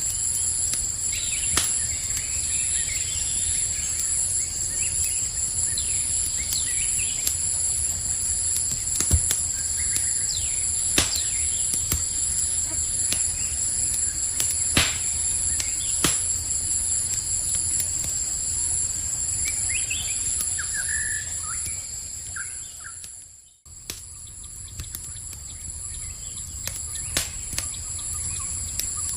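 Campfire crackling with scattered sharp pops over a low rumble, against a constant high drone of night insects. A few short bird chirps come about twenty seconds in, and near the end the sound briefly fades almost away before coming back a little quieter.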